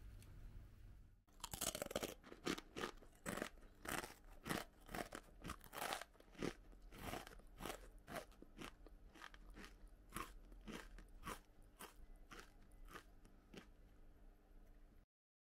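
Natori Ika Fry spicy batter-fried squid snack being chewed: crisp crunches about twice a second at first, growing softer and further apart as it is chewed down, and stopping near the end.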